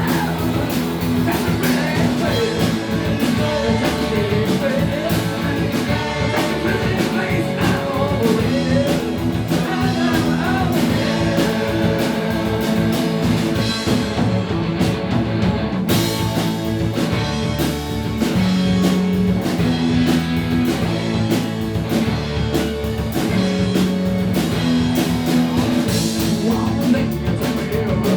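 Live rock band playing, with guitars and bass over a steady drum beat.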